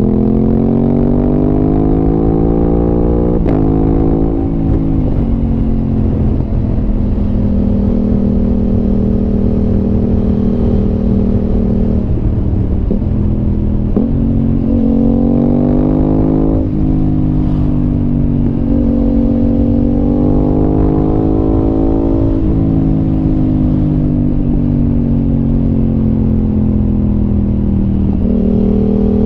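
Aprilia RS 660's parallel-twin engine running through an SC Project exhaust while riding. The engine pitch climbs in the first few seconds and again in the middle, each time dropping sharply at a gear change, then holds, rises and falls more gently at cruising speed.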